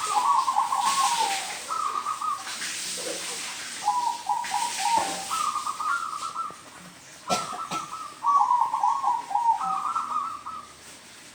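Zebra dove (perkutut) cooing: repeated phrases of short, rapid stepped coo notes, several phrases in a row with brief pauses between them.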